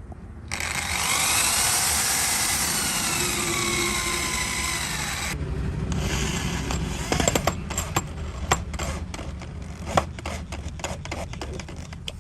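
A power tool runs for about five seconds, its whine sliding in pitch as it works. It stops, and a run of sharp clicks and knocks follows as wooden pieces are handled.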